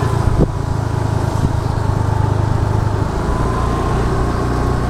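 Motor scooter under way, a steady low rumble of engine and road. A single short knock about half a second in.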